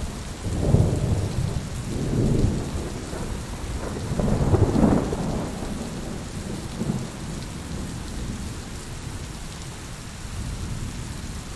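Steady rain with rolling thunder. Low rumbles build about a second in and again, loudest, around four to five seconds in, then die away and leave the rain alone.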